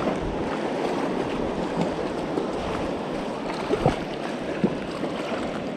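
River water rushing steadily, with a couple of brief sharp sounds about two-thirds of the way through.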